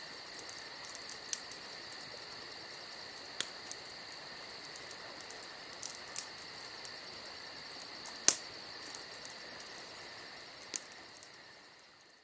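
Crickets chirping in a steady high trill, with a few sharp clicks, fading out near the end. In a frozen winter scene this is a dubbed-in sound effect, not live insects.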